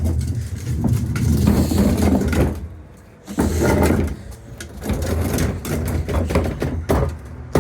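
McNeilus ZR garbage truck's engine running with a steady low rumble, which fades briefly about three seconds in and comes back up.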